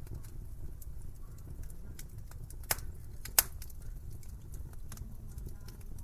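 Wood fire in a fireplace burning with a low steady rumble and constant small crackles, with two sharp pops about two and a half and three and a half seconds in.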